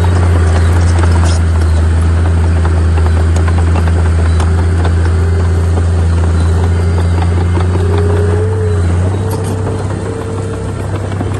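Heavy diesel engine of earthmoving machinery running steadily under load, with scattered clanks. The engine drone eases about nine seconds in.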